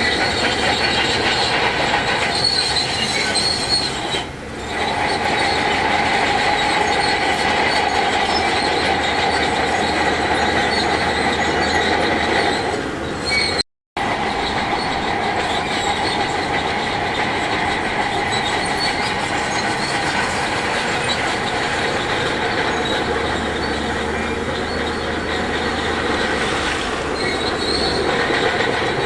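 Heavy earthmoving machinery running, with steady high-pitched tones over the engine noise. The sound cuts out for a split second about halfway through.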